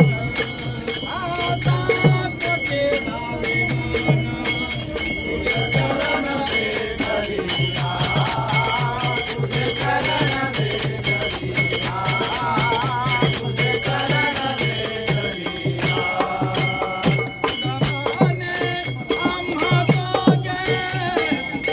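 A group singing a Marathi devotional bhajan, with small hand cymbals jangling rapidly over a steady hand-drum beat.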